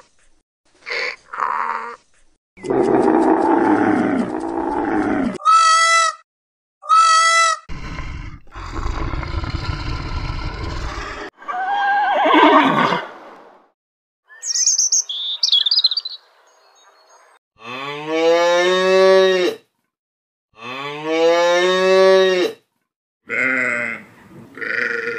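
Farm animals calling one after another, each call separate with short gaps between them. The loudest are two long, deep calls in the second half.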